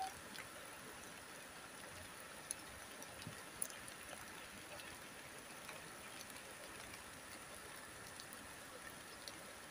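Light drizzle falling steadily: an even hiss with a few scattered drop ticks.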